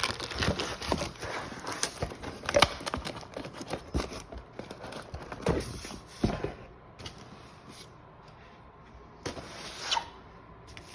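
Packaging and equipment being handled during an unboxing: irregular clicks, knocks and crinkling of wrapping for about six seconds, then quieter, with a short rustle near the end.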